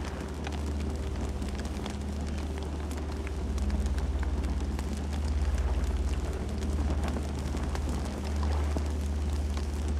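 Campfire burning: a steady low rumble of flames with frequent small crackles and pops.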